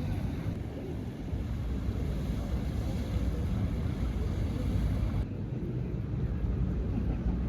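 Wind buffeting the microphone over the low rumble of a tour boat under way on the river. The higher hiss cuts away abruptly about five seconds in.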